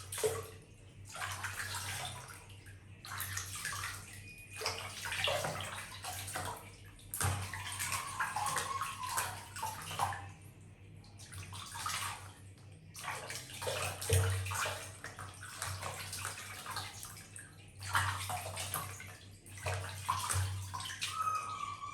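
Water splashing and sloshing in irregular bursts of a second or two, with short pauses between them.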